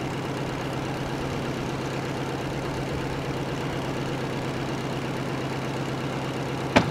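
Porsche Panamera Turbo S E-Hybrid's twin-turbo V8 idling steadily. Near the end a single sharp thump, a car door shutting.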